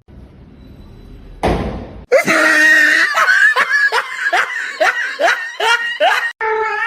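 Loud, high-pitched laughter in a rapid run of short bursts, starting after a brief thump about one and a half seconds in.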